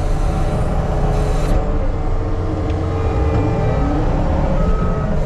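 Heavy diesel equipment engine running steadily with a deep rumble. Near the end, a backup alarm starts beeping.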